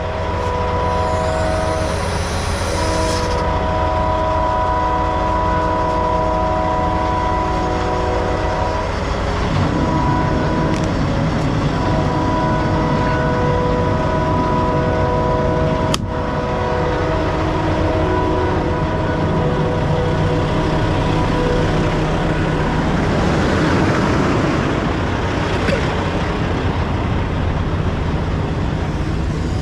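A chord of steady horn-like tones sounding in long blasts, breaking off twice, over a low steady engine rumble, with a single sharp click about two-thirds of the way through.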